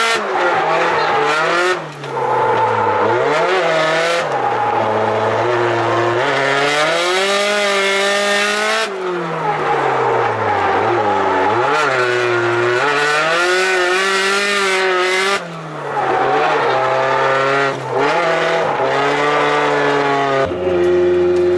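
Turbocharged car engine pulling hard on a circuit, its note climbing and falling again and again as the driver accelerates, lifts and changes gear, with several brief drops in sound at the shifts.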